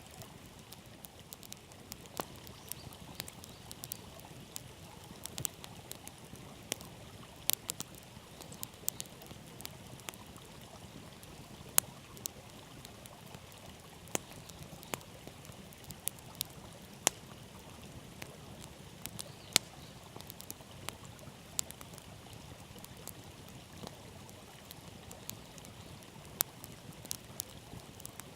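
Wood campfire crackling, with irregular sharp pops and snaps, over the steady rush of a river.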